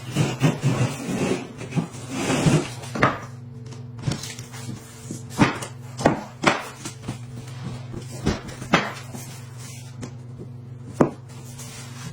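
Irregular knocks and taps, several of them sharp, over a steady low hum.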